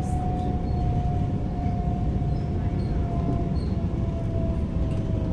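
Suburban electric train heard from inside the carriage: a steady low rumble of wheels on track, with a thin motor whine that falls slowly in pitch as the train slows near a station.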